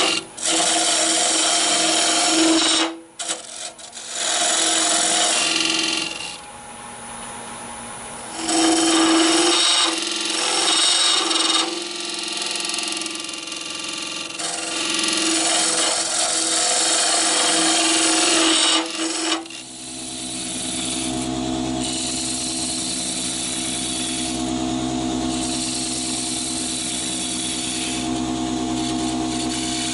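Wood lathe spinning an olive-wood blank while a hollowing tool cuts out its inside, a loud scraping cut in passes with short breaks. About two-thirds of the way through the cutting stops and a steady machine hum carries on.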